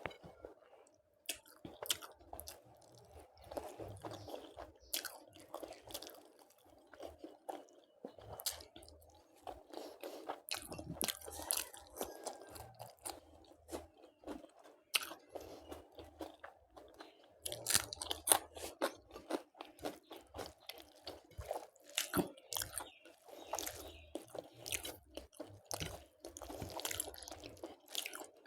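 Close-up chewing and biting of crunchy food, with many sharp crunches throughout.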